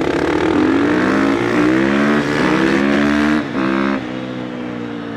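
450cc four-stroke dirt bike engine accelerating hard, its pitch climbing and dropping back at each of three gear changes. It then runs steadier and quieter for the last second or so.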